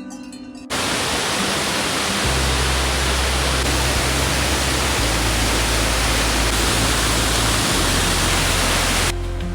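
Steady, loud rush of a large waterfall, cutting in about a second in and stopping abruptly near the end, laid over background music with a low bass line.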